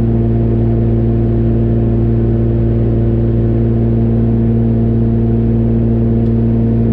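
Steady drone of a Cessna 414A's twin turbocharged piston engines and propellers at cruise power, heard in the cabin as an even hum of several held tones with no change in pitch.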